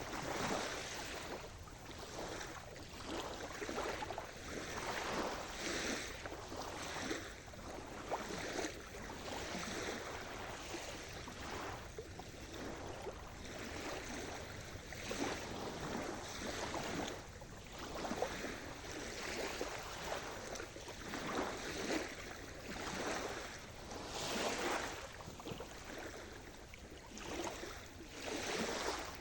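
Sea surf: small waves washing in, with the noise swelling and falling back every second or two.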